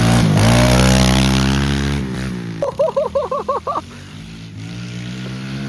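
Small pit bike's single-cylinder engine revving up, holding the revs, then dropping back to a steady idle about two seconds in. A short pulsing voice-like sound, like laughter, comes over it about halfway through.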